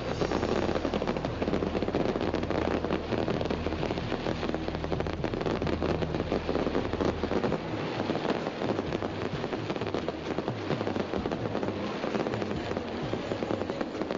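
Fireworks crackling continuously, a dense rapid patter of many small pops. A low steady hum underneath stops about halfway through.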